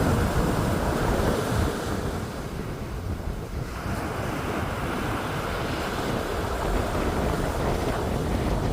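Wind rumbling on the microphone over a steady wash of sea surf.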